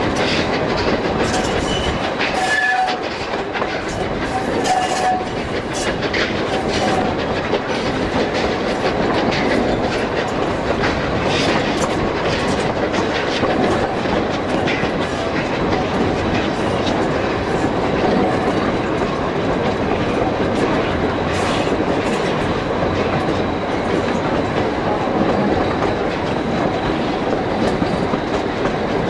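3'6" narrow-gauge train carriages rolling along jointed track, with the wheels clicking over rail joints amid steady running noise, heard close up from an open carriage window.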